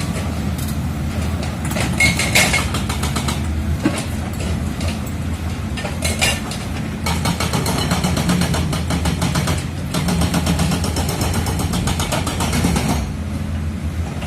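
Komatsu D85E-SS bulldozer's diesel engine running steadily under load as it works rock, with dense clattering and knocks over the drone.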